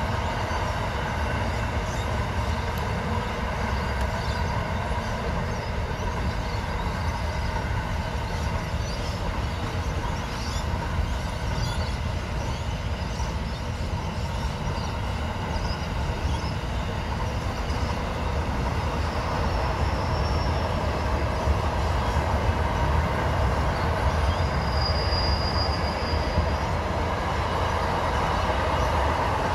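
A train running past with a steady rumble of wheels on rails, and brief high-pitched wheel squeals twice in the latter half.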